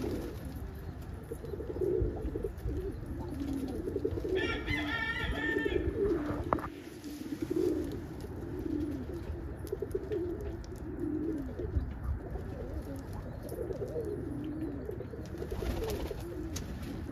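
Domestic pigeons cooing continuously, several birds overlapping in low, wavering coos. A brief higher-pitched call cuts in about four seconds in.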